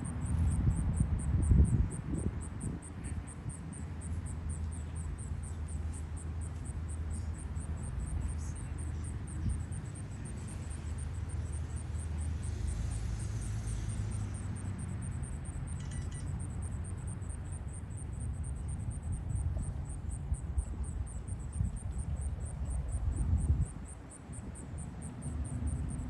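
Insects chirping in a steady, evenly spaced pulse of high-pitched chirps, a few a second, over a low rumble.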